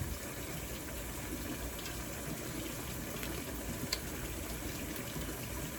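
Steady, even watery hiss of running or simmering water, with a single light click about four seconds in.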